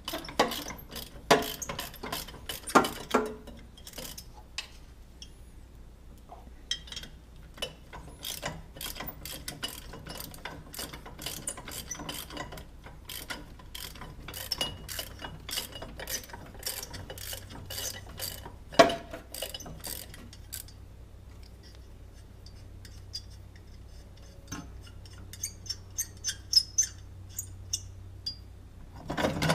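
Hand ratchet wrench clicking in irregular runs, with metal tools clinking and knocking, as bolts are loosened on a car being stripped for an engine pull. One louder knock comes about two-thirds of the way through.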